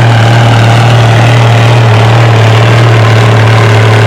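Oliver farm tractor's engine running loud and steady at full throttle, under load as it pulls the weight sled down the track.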